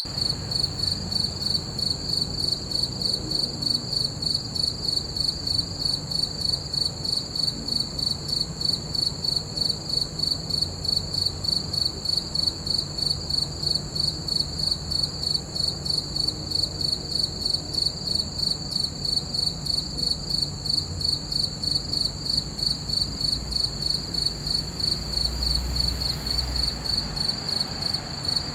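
Crickets chirping: a continuous high-pitched trill pulsing in a quick, even rhythm.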